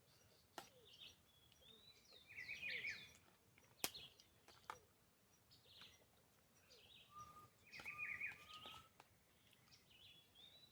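Wild birds chirping and calling on and off, with a brief series of thin whistled notes about seven seconds in. A few sharp clicks sound in the first half, the loudest about four seconds in.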